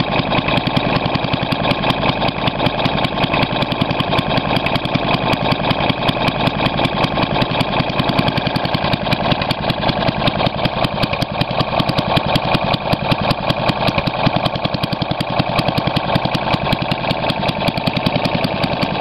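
1937 Briggs & Stratton Model WM small engine running steadily at idle, its exhaust a rapid, even beat of firing pulses.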